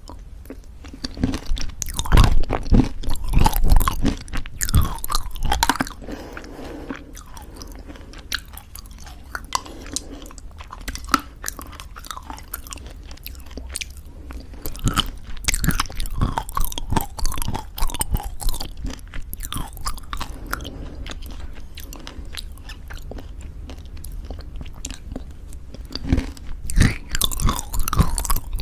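Close-miked chewing of crunchy homemade granola in thick yogurt: dense crisp crunches mixed with wet, sticky mouth sounds. The crunching comes in bouts, loudest about two to six seconds in and again near the end.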